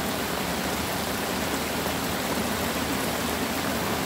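Steady rain falling on an umbrella overhead, an even unbroken hiss of drops.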